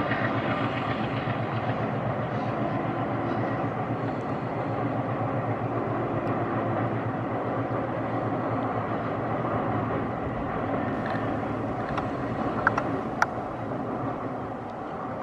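Passenger train coaches rolling along the track at a distance: a steady rumble of wheels on rail that slowly fades as the train moves away, with a few sharp clicks near the end.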